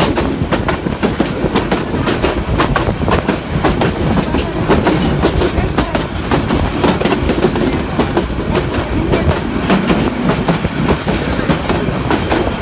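Passenger train running at speed, its wheels clattering over the rail joints in a dense run of clicks over a steady rushing noise, heard from an open carriage window.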